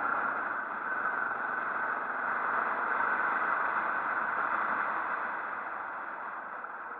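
Steady rushing noise from a moving motorcycle, mostly wind and road noise with the engine buried beneath it, easing off slightly near the end.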